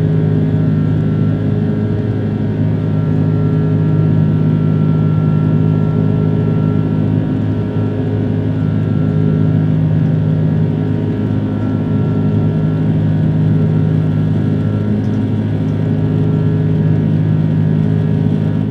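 Cabin noise of an Airbus A330-300 in the climb: the Rolls-Royce Trent 700 engines running at climb power, a steady drone with several steady hum tones over airflow rush, heard from a window seat inside the cabin.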